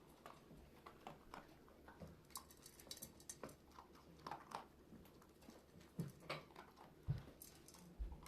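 Faint, scattered clicks and light taps from a Shiba Inu dog moving about.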